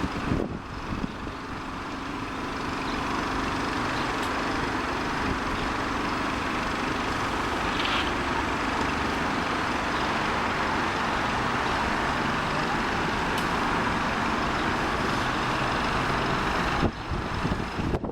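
Jet airliner engines running as an aircraft passes near the runway: a steady rushing noise with a faint low hum, building over the first couple of seconds, then cut off abruptly near the end.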